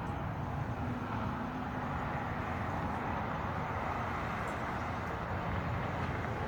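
Steady hum of distant interstate highway traffic.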